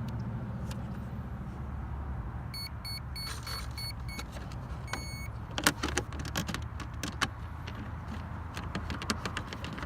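Electronic beeps from an RC boat's brushless speed controller powering up: five short beeps of the same pitch, then one longer beep. After that come sharp clicks and knocks of the boat being handled, over a steady low rumble.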